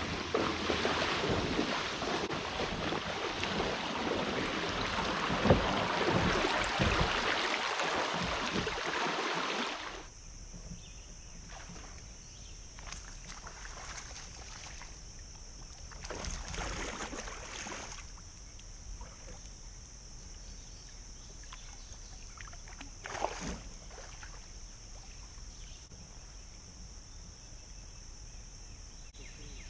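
Loud rushing water on a creek for about ten seconds, cutting off suddenly. Then quieter water sounds around a kayak follow, with a steady high hiss and a few soft swells of sound such as paddle strokes.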